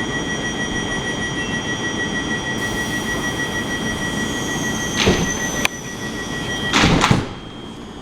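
Class 450 electric multiple unit's sliding doors closing. A steady high electrical tone runs until a knock about five seconds in and a loud burst of noise near seven seconds, when the tone stops and it goes quieter.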